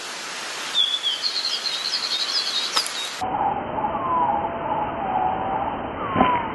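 Small birds chirping in short repeated notes, with a sharp click about three seconds in and another near the end.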